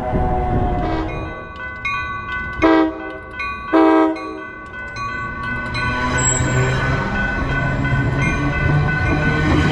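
A passenger train sounds two short horn blasts as it approaches a grade crossing, over the steady ringing of the crossing bells. From about six seconds in, a rising rumble of wheels on rail builds as the train rolls over the camera between the rails.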